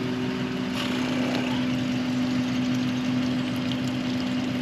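An engine idling steadily, a constant hum.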